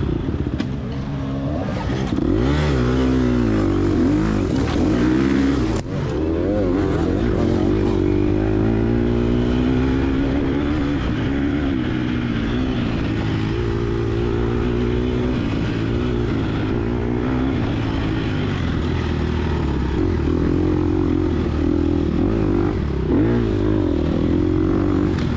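Gas Gas EX250F dirt bike's single-cylinder four-stroke engine being ridden hard through sand, its revs rising and falling again and again as the throttle is worked.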